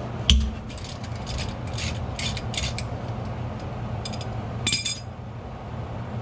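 Metal hand tools knocking and clinking on the differential while its drain plug is being undone: a sharp knock just after the start, a run of light clicks, and a ringing metal clink near the end.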